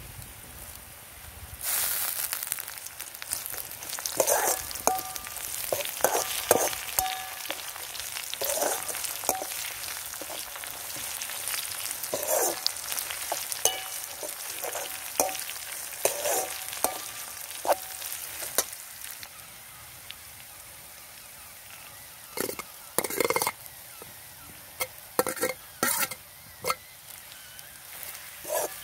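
Sliced onions, curry leaves and chillies sizzling in an iron wok, growing louder about two seconds in, while a steel ladle scrapes and clinks against the pan as they are stirred. A few sharper clanks of metal on the pan come in the last several seconds.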